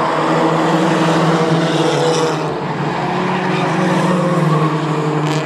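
Mighty Trucks racing engines running hard on a short oval track, several trucks' engine notes overlapping and shifting in pitch as the field passes.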